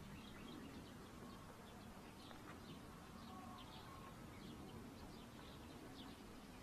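Faint, scattered high chirps of birds over a low steady hum.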